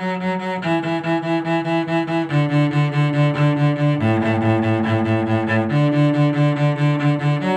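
A cello playing a bowed harmony line in short repeated strokes, moving to a new low note every second or so.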